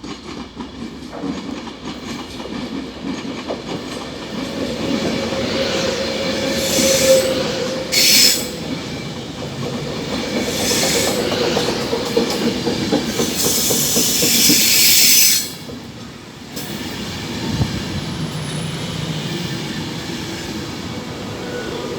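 Passenger train moving along the platform with a steady rumble and wheel-on-rail clatter. The wheels give several high-pitched squeals, the longest lasting about two seconds around two-thirds of the way through, after which the noise drops.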